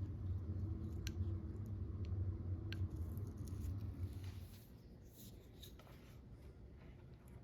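A few sharp light clicks and soft handling noises of small tool parts, over a low steady hum that stops a little past halfway.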